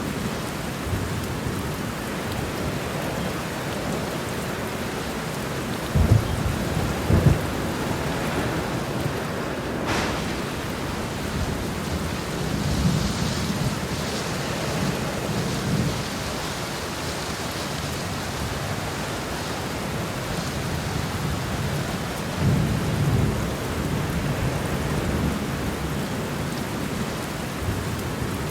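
Heavy rain falling steadily during a thunderstorm, with thunder rumbling low several times. The two loudest rumbles come about six and seven seconds in.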